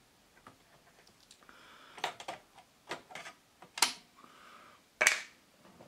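Small clicks and knocks of parts being handled in the opened Yamaha CD-2 CD player as a component is lifted out, with a few light scrapes between them. The loudest knock comes near the end.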